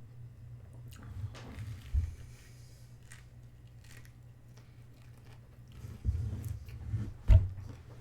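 Close-up chewing and biting of a chicken burger and fries, with scattered crunchy clicks and a few low thumps, the loudest near the end.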